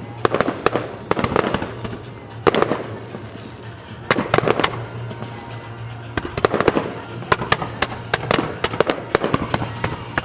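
Fireworks display: aerial shells bursting one after another, some as single bangs and some as dense crackling clusters, with music playing underneath.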